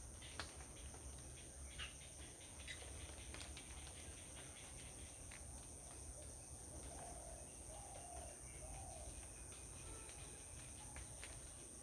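Faint outdoor ambience: a steady high-pitched insect drone throughout, a few short sharp chirps in the first two seconds, and soft lower bird calls around the middle.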